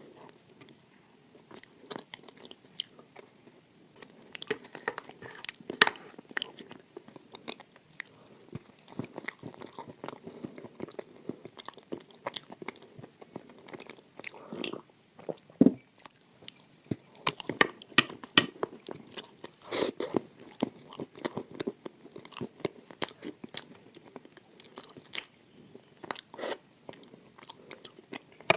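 Close-miked chewing and biting of crunchy food, a dense run of irregular sharp crunches and crackles.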